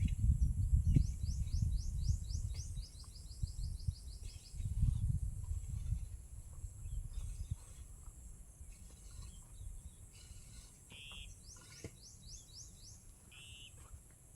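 A small bird calling in quick runs of short chirps, one run about a second in and another near the end, over low rumble from wind on the microphone. A steady faint high insect drone runs underneath.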